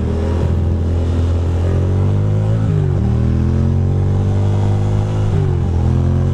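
2006 Ducati Monster 620's air-cooled V-twin accelerating hard, rising in pitch through the gears with two upshifts, each a sudden drop in revs: about three seconds in and again about five seconds in.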